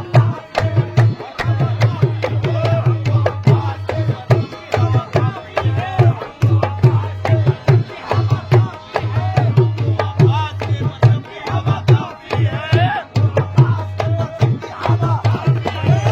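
Qawwali music without words: hand drums playing a fast, dense rhythm with deep bass strokes, under an ornamented melody line.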